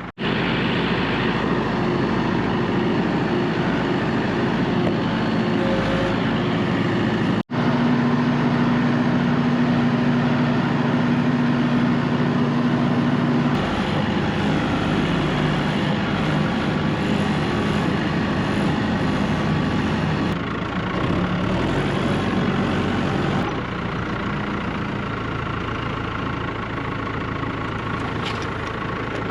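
Heavy vehicle engine running steadily with a low drone. It cuts out for an instant about seven seconds in.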